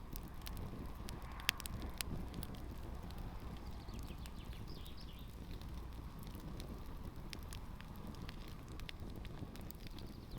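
Campfire crackling with scattered sharp pops over a steady low rumble; the loudest pop comes about a second and a half in.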